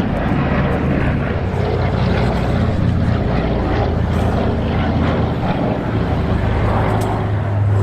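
Douglas Dakota's twin piston radial engines droning as it flies past. A steady low propeller hum sits under a rush of noise and grows a little louder near the end.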